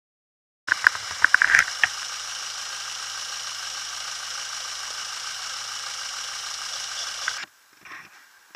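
Citroën Saxo engine idling steadily with a hissing rattle while running on washing-up liquid in place of engine oil. A few sharp clicks come in the first second or so, and the sound cuts off abruptly near the end.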